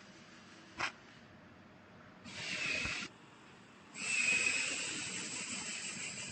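Hissing gas flow with a faint steady whistle, coming in two bursts: a short one about two seconds in and a longer, louder one from about four seconds that slowly fades. A single sharp click comes just before the first second.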